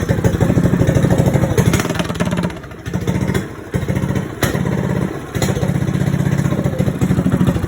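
Predator small engine with an aftermarket stage 3 racing exhaust running loud just after a choked start, a rapid stream of exhaust pulses whose level dips briefly a few times as the throttle comes and goes.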